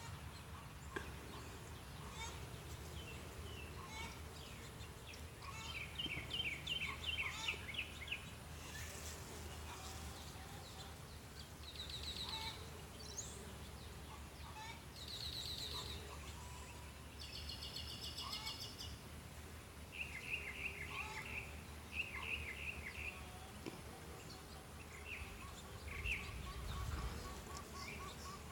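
Several songbirds singing: repeated quick trills and chirps, some higher-pitched, coming every few seconds over a low steady hum.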